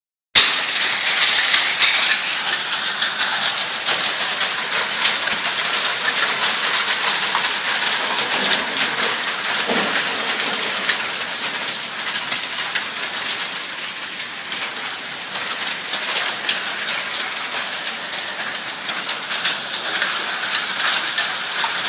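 Hailstorm: hailstones and rain pelting down in a dense hiss, with many sharp ticks of individual stones striking.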